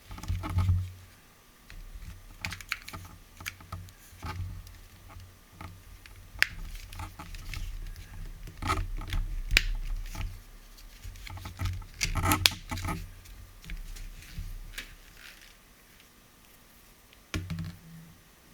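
Irregular clicks, knocks and light scraping of hands handling plastic vacuum cleaner parts, with no motor running.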